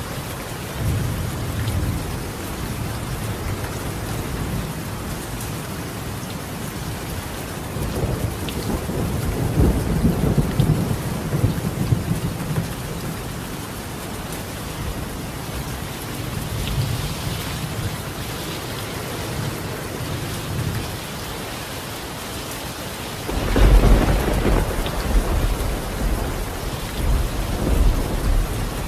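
Steady rain falling on a tiled roof, with rolling thunder. A rumble builds and fades around a third of the way in. A louder clap of thunder breaks suddenly near the end and rumbles on.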